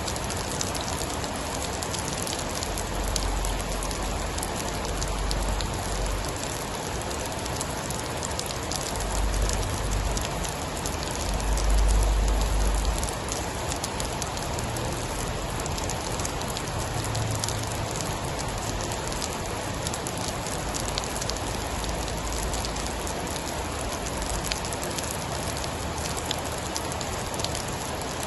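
Steady heavy rain with a dense patter of fine ticks, and low rumbles of distant thunder rolling in a few times, loudest about twelve seconds in.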